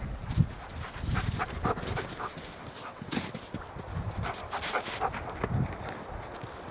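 Footsteps crunching through snow, mixed with a malamute panting.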